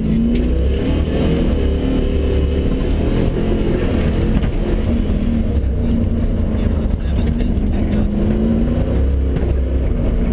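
Car engine heard from inside the cabin on an autocross run, revving up and easing off repeatedly as the driver accelerates and lifts between cones, over a steady low rumble.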